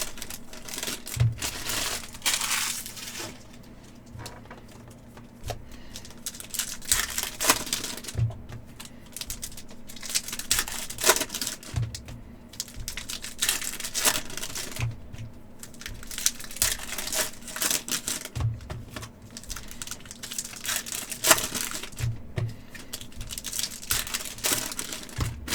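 Foil trading-card pack wrappers crinkling and tearing as hockey card packs are opened by hand, with irregular clicks and rustles as the cards are handled.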